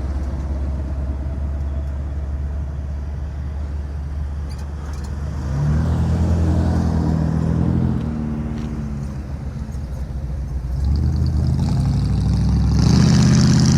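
A car engine running close by over a steady low rumble, getting louder twice: about six seconds in and again from about eleven seconds to the end.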